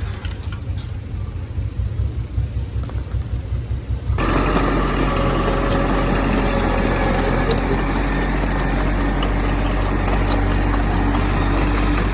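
Heavy diesel engine idling with a low pulsing rumble. About four seconds in, the sound jumps abruptly to a louder, steady engine run.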